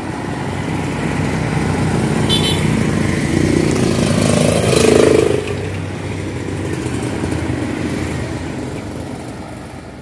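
A motor vehicle's engine running steadily, growing louder to a peak about five seconds in and then fading away.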